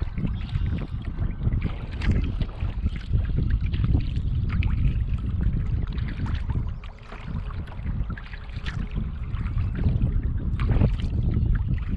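Wind buffeting the microphone in an uneven low rumble that eases briefly partway through, with water splashing and dripping from kayak paddling.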